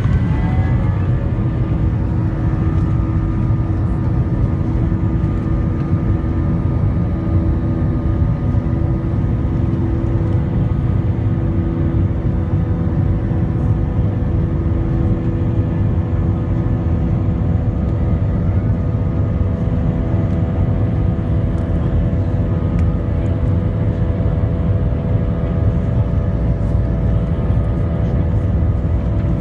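Airbus A320 jet engines spooling up, with a whine that rises in pitch about a second in and then holds steady over a heavy, continuous rumble, typical of the takeoff roll.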